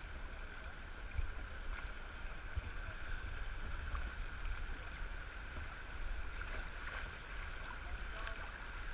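River water running and splashing around a kayak, heard through a GoPro's housing, with a steady low rumble underneath and a few faint knocks.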